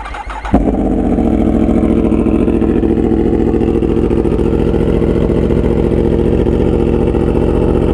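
Yamaha YZF-R1M crossplane inline-four motorcycle engine cold-started: the starter cranks briefly, the engine catches about half a second in with a sharp burst, then idles steadily at a cold-start idle.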